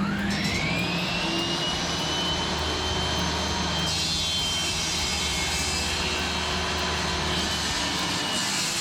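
Table saw motor spinning up with a rising whine that levels off into a steady high running note. About four seconds in, a hissier edge joins the sound.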